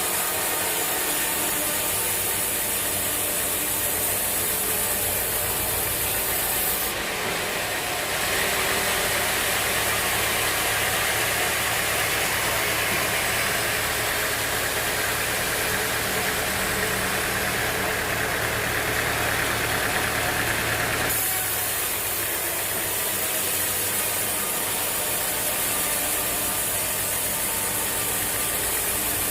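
Sawmill machinery running steadily with an engine hum. For a stretch in the middle the sound changes to a brighter, hissier noise.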